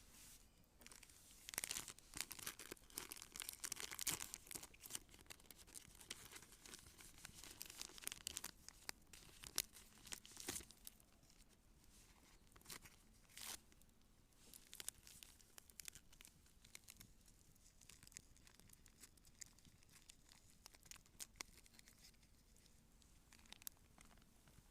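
Wood campfire crackling and popping in quick, irregular snaps, busy through the first half and thinning to occasional pops later.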